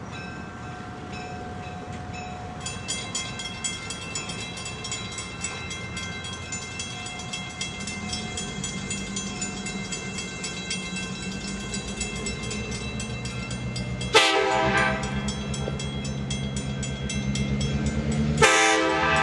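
A diesel locomotive creeps up to a grade crossing, its engine getting louder from about halfway through, while the crossing bell rings steadily. The locomotive's horn gives two short blasts near the end, about four seconds apart.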